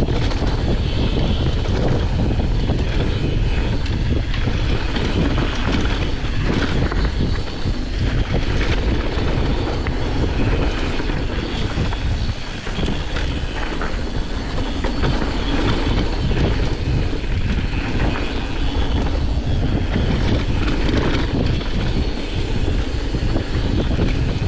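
Mountain bike descending a bike-park trail at speed: wind rushing over the camera microphone, tyres on dirt, and the bike rattling and knocking over bumps and jumps.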